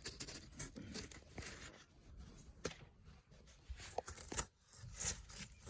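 Faint rustling with scattered light clicks and taps: materials being handled while sealing gaps along the bottom of a house.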